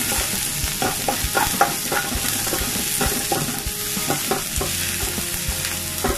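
Sliced onion and garlic sizzling in hot oil in a nonstick pan, with a wooden spatula repeatedly scraping and knocking against the pan as they are stirred.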